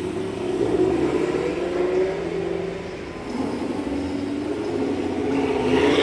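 Sports car engines running in a staging line, their note rising and falling as they are revved, getting louder near the end.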